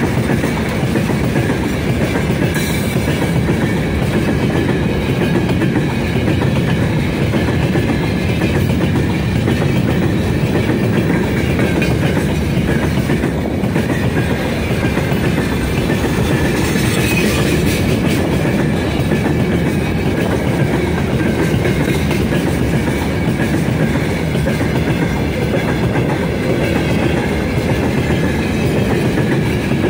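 Freight train of open gondola wagons rolling steadily past close by: the wheels rumble and clatter on the rails, with faint high ringing tones above.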